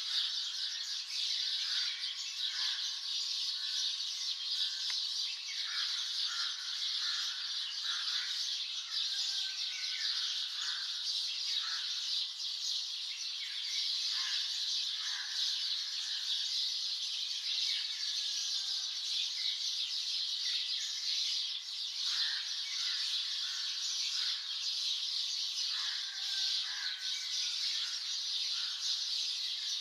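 A chorus of many birds chirping and calling at once: a dense, continuous high twittering, with shorter, lower whistled call notes scattered through it.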